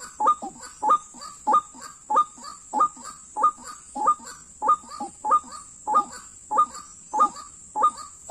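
White-breasted waterhen (ruak-ruak) calling, one call repeated over and over in a very even rhythm, about three calls every two seconds.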